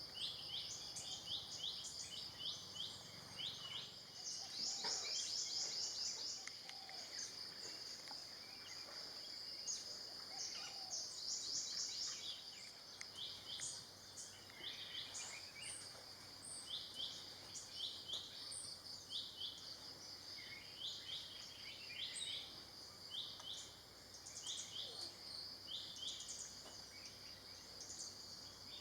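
Outdoor tropical ambience: a steady, high-pitched insect drone runs throughout, under frequent short bird chirps. Twice the chirps quicken into rapid trills.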